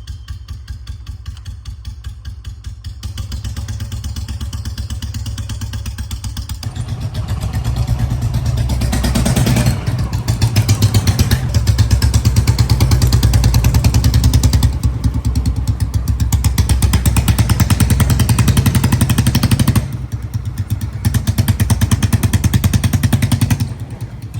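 Royal Enfield Bullet's single-cylinder cast-iron engine running with an even pulsing beat. The revs build over the first ten seconds and are held high, ease off briefly about twenty seconds in, rise again, then drop near the end.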